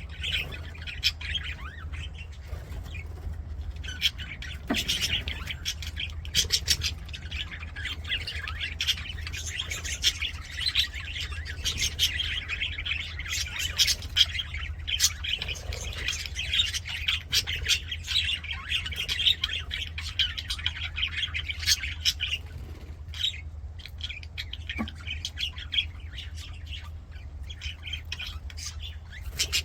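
A flock of budgerigars chattering and warbling continuously, with frequent sharp chirps and squawks, over a steady low hum.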